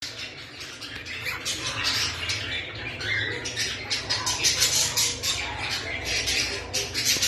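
A flock of small caged parrots (lovebirds, cockatiels and budgerigars) chirping and squawking over one another in a continuous dense chatter.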